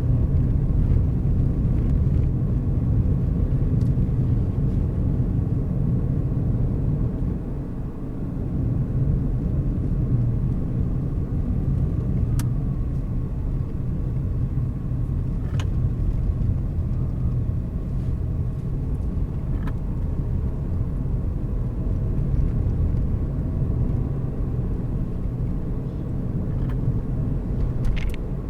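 Car driving along a road: a steady low rumble of engine and tyres, with a few faint sharp clicks now and then.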